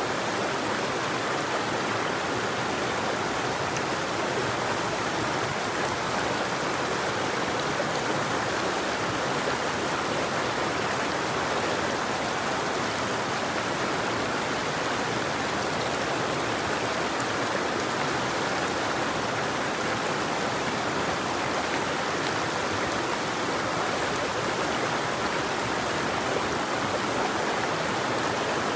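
Steady rush of a flowing river or stream, an even wash of water noise without breaks or separate events.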